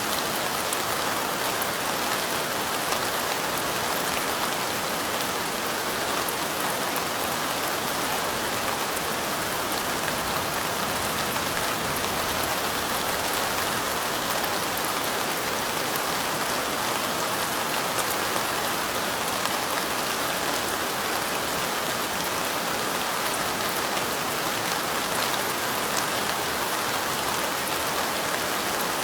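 Steady light rain falling, an even hiss of drops with an occasional sharper drop standing out.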